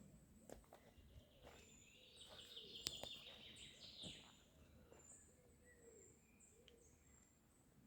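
Faint bird chirping, with a rapid, trilled run of chirps in the middle.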